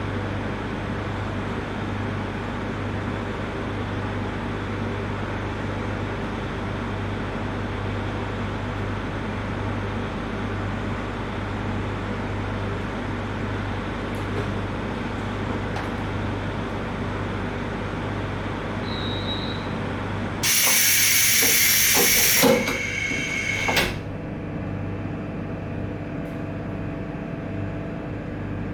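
Steady running rumble of a JR Hokkaido 721-series electric train, with a low hum underneath. About three quarters of the way through, a loud hiss cuts in for about three and a half seconds and stops suddenly, and the rumble then goes on a little quieter.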